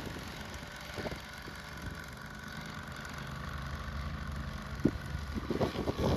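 Engine of a snow-clearing machine running steadily with a low hum, with a couple of soft knocks; it grows louder near the end.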